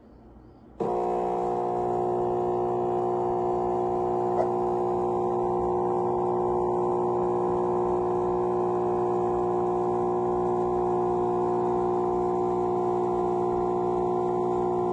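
Espresso machine pump switching on about a second in and running with a steady, unchanging hum.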